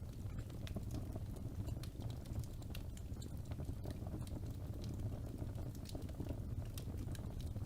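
Fire burning in a fireplace: a steady low rumble of flames with many irregular sharp crackles and pops.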